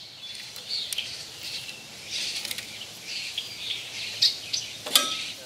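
Birds chirping in the background, short high calls scattered throughout, with one sharp click near the end.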